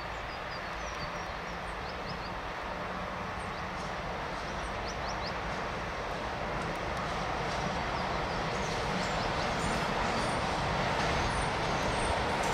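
Electric locomotive hauling a train as it approaches along the track: a steady rumble of wheels on rail that grows gradually louder, with a few short high chirps over it in the first few seconds.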